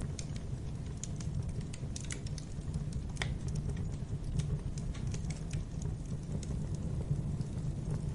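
Wood fire burning in a fireplace: irregular crackles and pops over a steady low rumble, with one louder snap about three seconds in.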